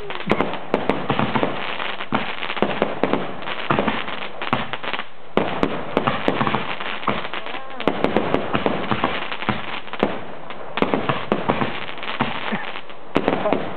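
Fireworks going off in a dense, unbroken run of sharp bangs, pops and crackles as shells burst overhead.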